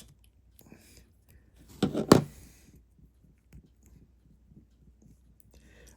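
LEGO bricks being handled, with faint scattered clicks. About two seconds in, a short grunt-like voice sound comes with one sharp plastic snap as a piece is pressed down hard to connect.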